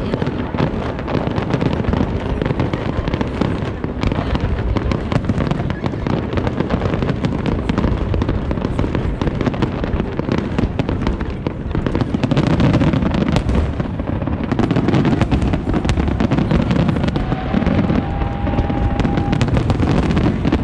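Aerial fireworks display: a continuous barrage of bursts and crackling, with many shots overlapping. It grows denser and louder about twelve seconds in.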